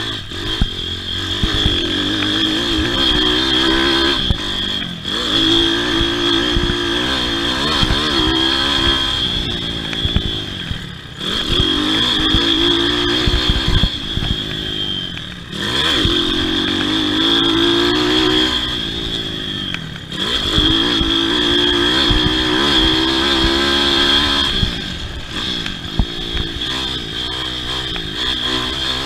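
Pit bike engine revving hard and backing off over and over, its pitch climbing and dropping every few seconds as it is ridden around a motocross track.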